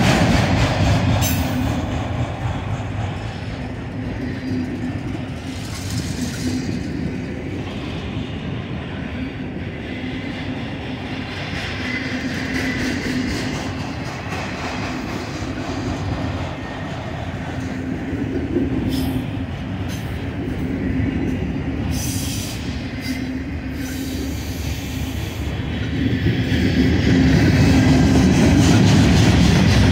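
Mixed freight train of autorack cars and boxcars rolling past, steel wheels running on the rails with a steady rumble that grows louder near the end.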